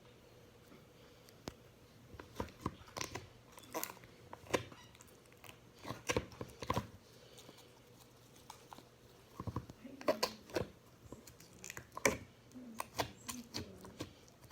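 Slime being squished and worked by hand, making irregular sticky clicks and crackles.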